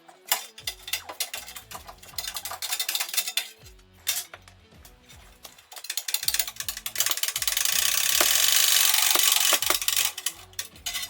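Metal tools and parts clinking and rattling, over background music with a steady bass line. About seven seconds in, a loud steady hiss runs for around three seconds.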